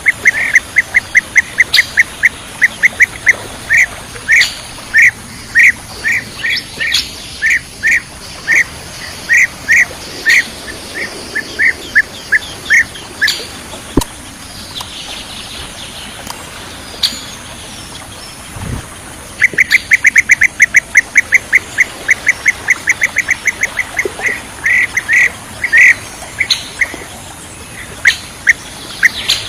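Bee-eater calls: long series of short, clipped chirps at several a second, which break off for several seconds in the middle and then resume in a fast, dense run.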